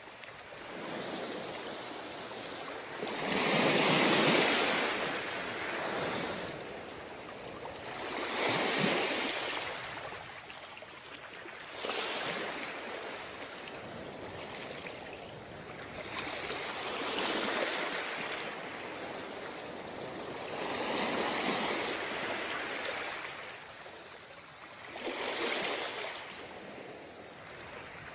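Ocean waves breaking on a beach: a steady wash of surf with about seven louder breakers at irregular intervals, the strongest about four seconds in.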